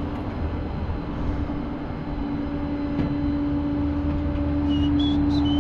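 Flatbed tow truck's engine running with a steady hum, its hydraulics engaged to unload the car. A high, wavering squeal joins in near the end.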